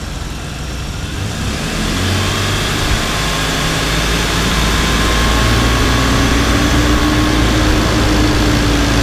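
Ford Explorer's 4.0-litre V6 with the A/C on, revved by hand at the throttle butterfly: the engine speed climbs over a couple of seconds and is held up to simulate driving, which pulls the A/C low-side pressure down.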